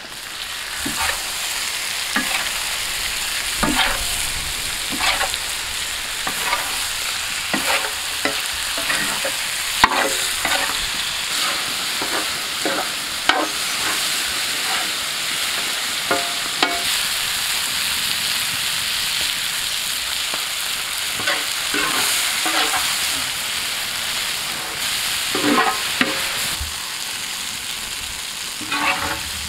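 Chicken livers sizzling as they fry in oil and masala in a wide metal pan, the hiss starting as they are tipped in. A metal spatula scrapes and clinks against the pan at irregular moments as they are stirred.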